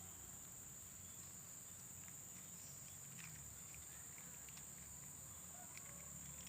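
Quiet outdoor ambience: insects keep up a faint, steady high-pitched drone, with a few faint clicks.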